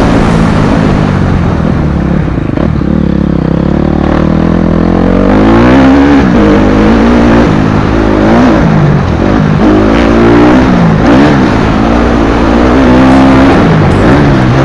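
Motocross bike engine revving hard and easing off over and over, its pitch climbing and dropping every second or so.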